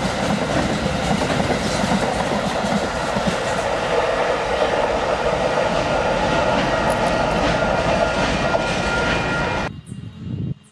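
Freight train's container wagons rolling past at close range, a steady loud rumble of steel wheels on the rails. The sound cuts off suddenly near the end.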